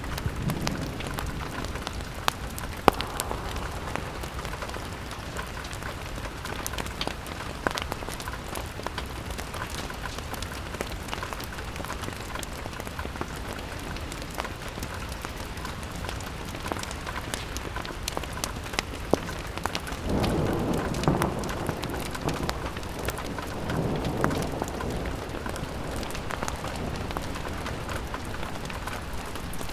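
Steady rain pattering on a window, with scattered sharp ticks throughout. A louder rush swells up twice about two-thirds of the way through.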